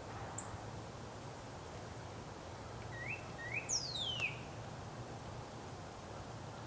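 A songbird calling: a brief high note, then about three seconds in two short rising notes followed by one long steeply falling note. A steady low hum and hiss lies underneath.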